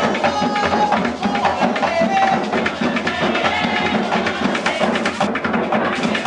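Puerto Rican bomba ensemble playing live: barrel drums (barriles) beating a dense, steady rhythm over a sharp wooden clicking pattern.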